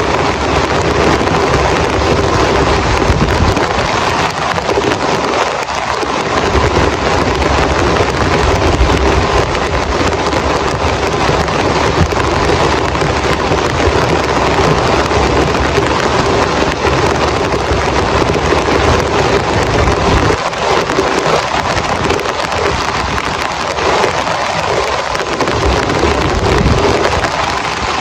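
Heavy rain pouring steadily, with a low rumble beneath it that comes and goes.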